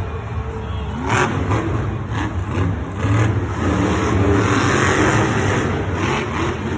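Monster trucks' supercharged V8 engines revving hard during a head-to-head race, a loud continuous rumble with rising and falling pitch.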